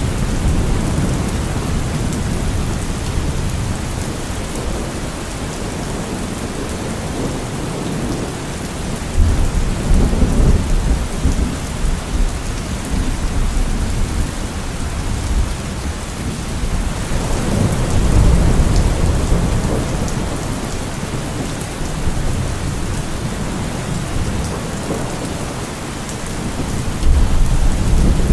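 Steady heavy rain with rolls of thunder; low rumbles swell up about a third of the way in, again past the middle, and near the end.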